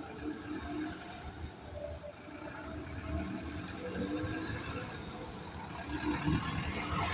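Bus engine running with a low rumble and a faint wavering whine.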